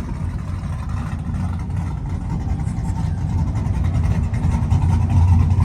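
Car engines running, a low rumble that grows louder in the last second or two.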